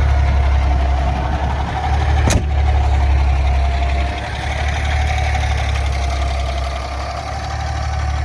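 Natural-gas (CNG) engine of a Kenworth T800 semi truck idling steadily, a deep rumble with a steady whine above it. A single sharp click about two seconds in.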